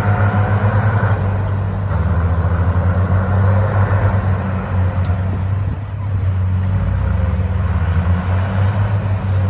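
Komatsu crawler bulldozer's diesel engine running under load, a steady low throbbing note whose pitch steps down about a second in and shifts again about seven seconds in as the load changes.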